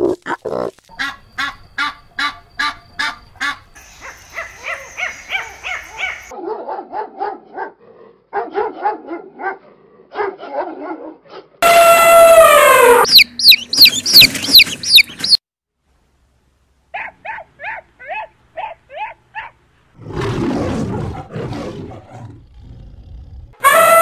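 A string of different animal calls cut one after another: rapid repeated short calls for the first several seconds, then a loud falling trumpet with high squeals from elephants about halfway, a quick run of shorter calls, and another loud elephant trumpet starting just before the end.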